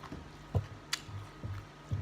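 Close-up eating sounds: irregular soft low chewing thumps about twice a second, with a few sharp clicks, over a faint steady hum.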